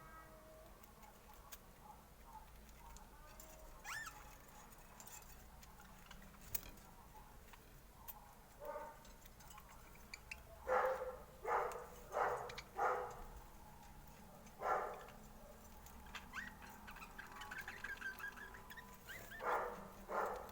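Short animal calls over a quiet background: a run of four in quick succession about halfway through, a few single calls before and after, and faint twittering in between.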